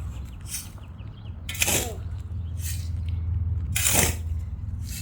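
Loose soil being scooped and tossed back into a planting hole around a newly planted tree, four short swishes about a second apart, the second and fourth loudest, over a steady low rumble.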